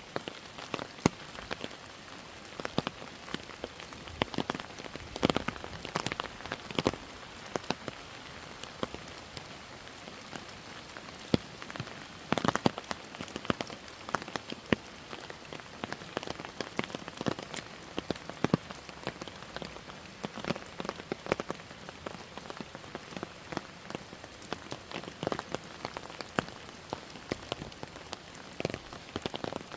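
Steady rainfall, with many single drops tapping close by at irregular moments over a constant hiss.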